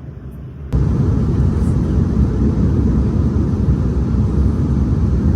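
Loud, steady rumble of a jet airliner's engines, cutting in suddenly about a second in.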